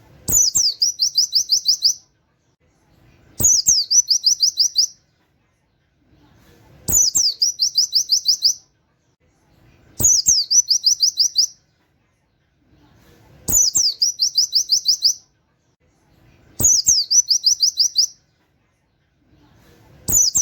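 Pleci (white-eye) song: a short sweeping note followed by a rapid trill of about eight high 'wit' notes, each phrase about a second and a half long and repeated about every three and a half seconds, seven times.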